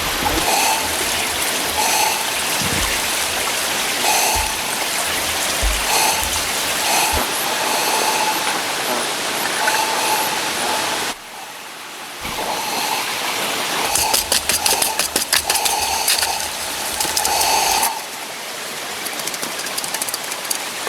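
Steady hiss of running or falling water, cut off abruptly about eleven seconds in and picked up again a second later, with a run of rapid clicks a few seconds after that.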